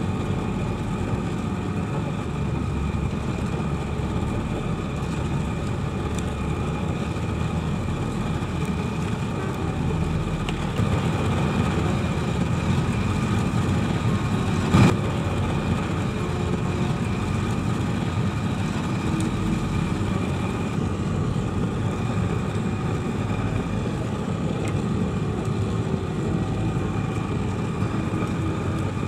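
Forge furnace running steadily: a continuous rushing noise with faint steady tones over it, and one sharp click about halfway through.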